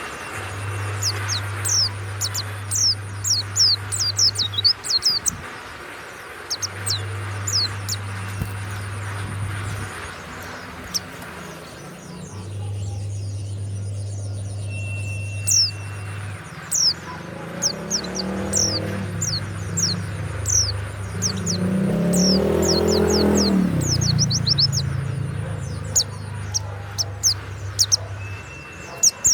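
Pleci (white-eye) singing: rapid runs of high, thin, downward-sweeping chirps with brief pauses. A low hum comes and goes underneath, and an engine swells and fades about two-thirds of the way through.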